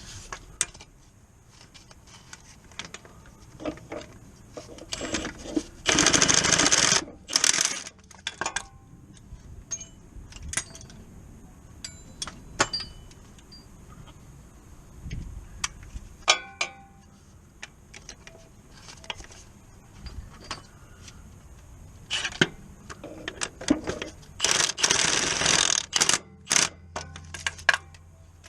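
Metal tools and car parts clinking and knocking during hands-on repair work, with two loud bursts of mechanical noise, each about a second long, around six and twenty-five seconds in.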